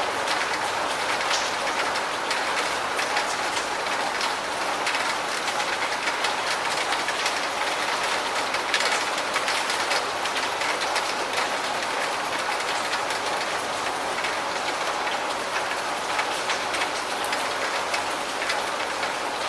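Steady rain falling: a dense, even hiss scattered with many small drop ticks, holding level throughout.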